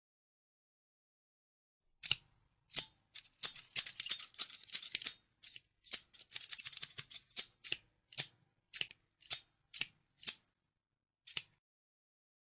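Scissors snipping. After about two seconds of silence comes a run of crisp snips, in quick flurries at first, then single snips about half a second apart, with the last one shortly before the end.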